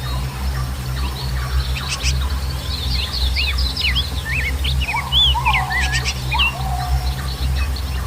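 Several songbirds chirping and twittering in quick high notes, with a few longer, lower whistles that slide down in pitch in the second half. A steady low rumble runs underneath the whole time and is the loudest part of the sound.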